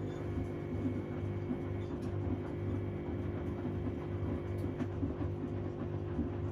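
Washing machine running a wash cycle: a steady motor hum with an uneven, pulsing churn from the turning drum.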